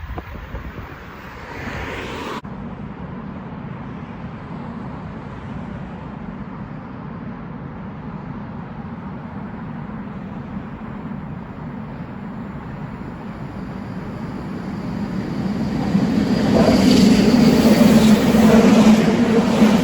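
Container freight train hauled by a green BLS electric locomotive, heard first as a steady low rumble that grows louder from about two-thirds of the way in and is passing close and loud near the end.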